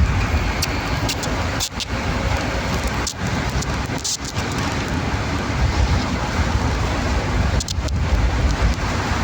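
Heavy rain: a loud, dense, steady hiss with a strong low rumble underneath.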